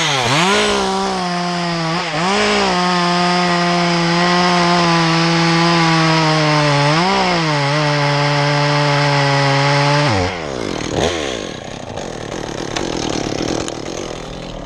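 Two-stroke chainsaw at full throttle cutting through pine, its pitch holding high and steady with brief dips at about 2 and 7 seconds. About 10 seconds in the throttle is released and the saw drops back to a lower, rougher idle.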